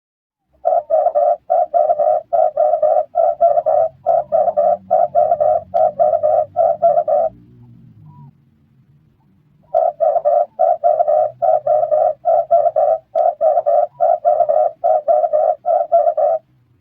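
Red turtle dove cooing: two long runs of quick, evenly repeated coos, about three a second, with a pause of roughly two seconds between the runs.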